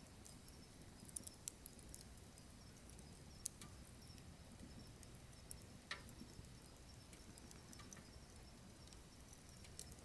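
Firewood burning, crackling faintly: scattered sharp pops and ticks over a low steady rumble, with the sharpest pops about a second in and again about three and a half seconds in.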